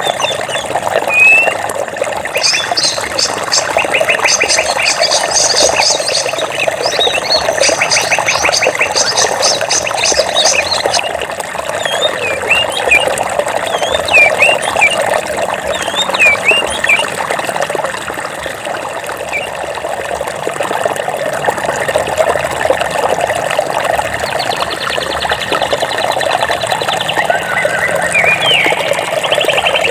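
Flowing water rushing steadily, with birds chirping over it: fast trills through the first ten seconds, then short separate chirps, and another trill near the end.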